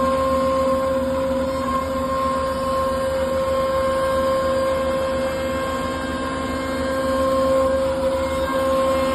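CNC router spindle running steadily with a constant whine while carving a wooden cabinet door.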